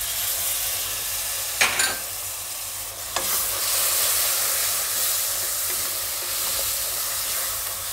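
Grated tomato sizzling as it hits hot oil and spices in a pan, stirred with a silicone spatula, with a steady hiss throughout. Two brief knocks stand out, about one and a half and three seconds in.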